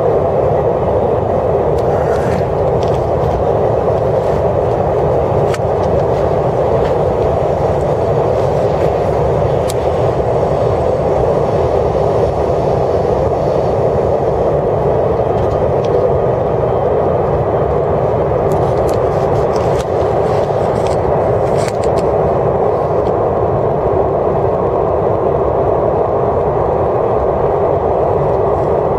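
KTX high-speed train running, heard inside the passenger car: a steady cabin noise that does not change, with a few faint clicks.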